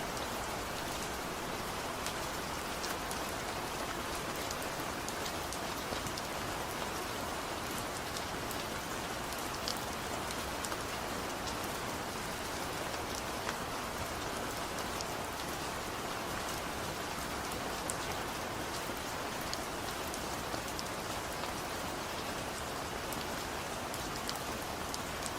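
Steady light rain falling, an even hiss of rainfall with scattered individual drops ticking on a surface, with no thunder.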